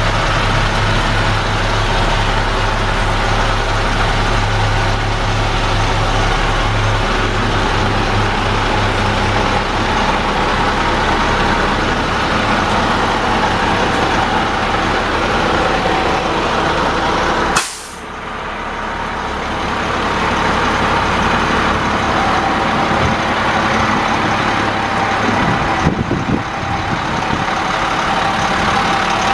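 International DT466 diesel engine of a 2002 International 4900 dump truck running steadily. A short, sharp burst of noise comes about two-thirds of the way through, and the sound dips for a moment after it.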